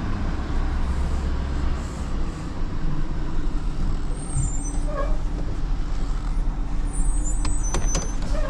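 A vehicle engine running with a steady low rumble, with a few sharp clicks and brief high squeaks near the end.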